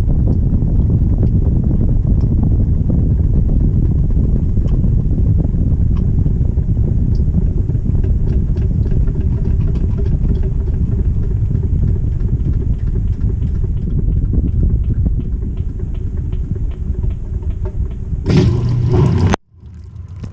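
2018 GE GTW220ACKWW top-load washing machine running, heard from inside the tub: a steady heavy rumble with light ticking, easing a little near the end. About eighteen seconds in there is a brief louder burst, then the sound cuts off suddenly.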